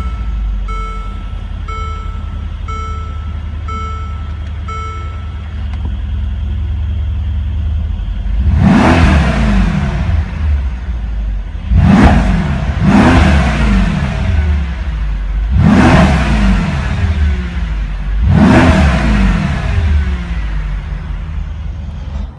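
2016 Mercedes-AMG SL63's 5.5-litre bi-turbo V8 idling just after start-up, with a repeating beep in the first five seconds or so. From about eight seconds in the engine is revved five times, each rev climbing sharply and dropping back to idle.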